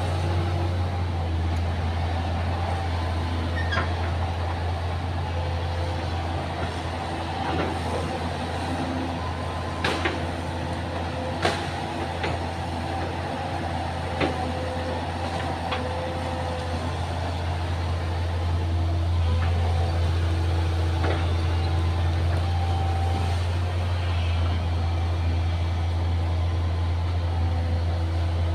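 Excavator's diesel engine running steadily, with a few sharp knocks in the first half. The engine gets a little louder about two-thirds of the way through.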